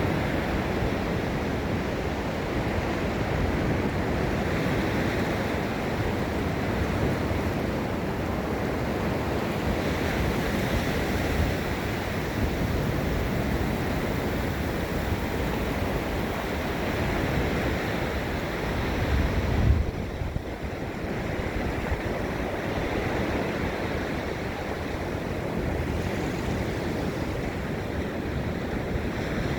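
Gulf of Mexico surf breaking and washing steadily on a sandy beach. A brief low rumble of wind buffeting the microphone about two-thirds of the way through.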